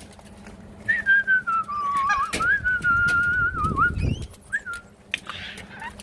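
A long wavering whistle, starting about a second in and lasting about three seconds, sliding down then wobbling up and down, among scattered small clicks.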